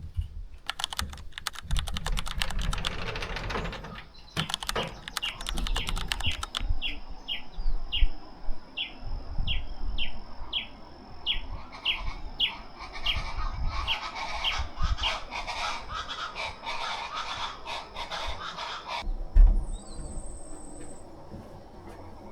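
A bird calling a long series of short, evenly spaced notes, about two a second, over a steady high-pitched whine. Rustling clicks come through in the first seconds.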